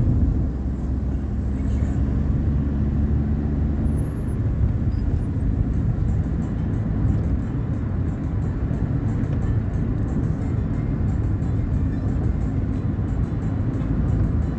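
Steady low rumble of road vehicles, with a steady low hum in the first few seconds that fades out about four seconds in.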